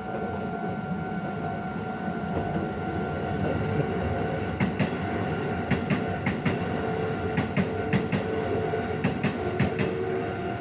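Keisei 3600 series electric train rolling past, its wheels clacking over the rail joints in quick pairs and groups from about four and a half seconds in. A level-crossing warning bell rings steadily underneath.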